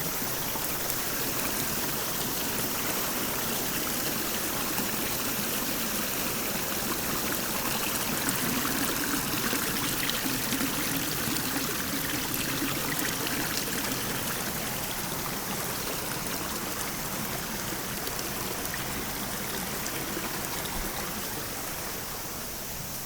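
Shallow brook babbling and trickling steadily, slowly growing fainter near the end.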